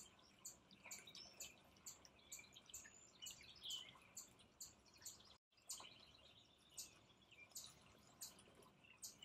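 Faint, repeated high bird chirps, a few every second, over a soft trickle of fountain water pouring from a spout. The sound drops out briefly about five and a half seconds in.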